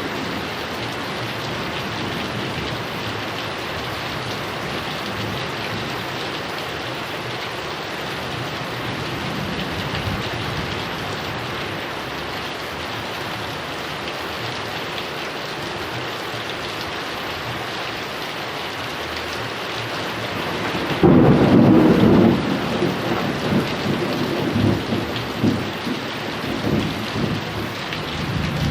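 Heavy rain falling steadily on surfaces, with a crack of thunder breaking in sharply about three quarters of the way through and rumbling on to the end.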